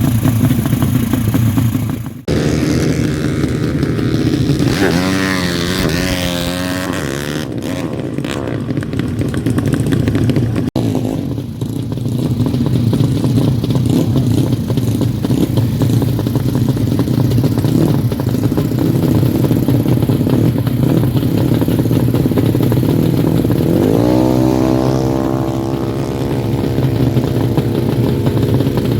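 A Honda Karisma's single-cylinder four-stroke engine running. It is briefly revved up and down twice a few seconds in, and raised to a higher, steady speed about 24 seconds in, as the engine is being tuned.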